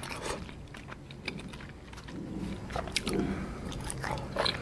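Close-miked biting and chewing of soft agar-agar jelly, with small wet mouth clicks scattered through.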